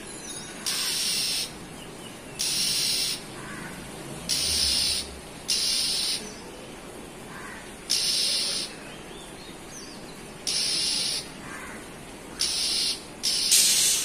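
A bird repeats a harsh, hissing call eight times, each call under a second long, at uneven gaps of one to two seconds.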